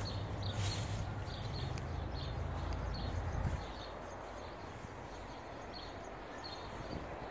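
A bird chirping over and over, about two short calls a second, over a low rumble that stops about halfway through.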